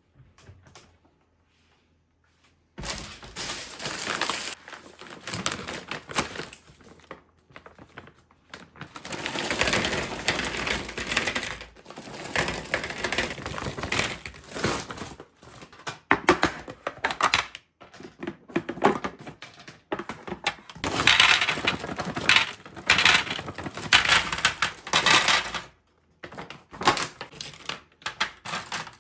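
Plastic packaging crinkling and rustling as groceries are handled, with scattered sharp clicks and knocks. It comes in irregular bursts separated by short pauses, after a near-silent first few seconds.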